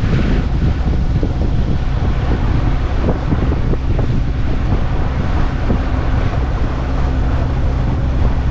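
Wind buffeting the microphone aboard a sailing yacht under way, over a steady low rumble.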